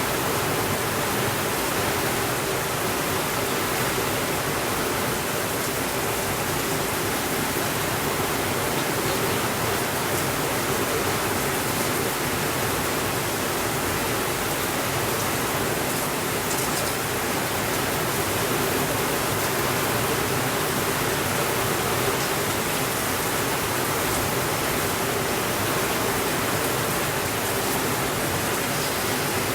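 Steady rainfall, an even dense hiss with no change in level.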